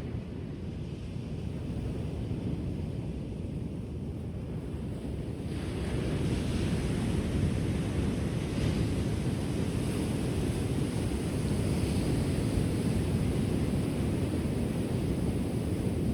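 Ocean surf on a shore: a steady low rumble of the sea, then about five seconds in a wave breaks and a broad hiss of washing water rises and carries on.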